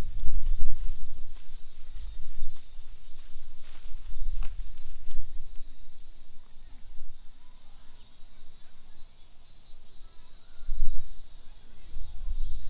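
A steady high-pitched chorus of insects in the park trees, with gusts of wind rumbling on the microphone.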